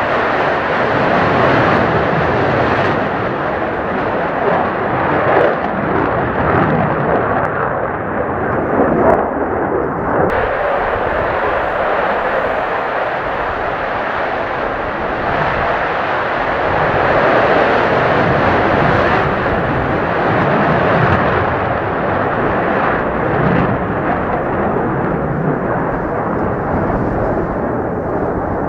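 Jet aircraft engine noise: a loud, continuous rushing sound that swells and eases over the whole stretch.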